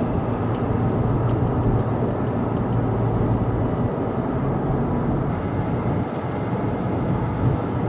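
Steady low rumble and hum of a vehicle, as heard from inside a car.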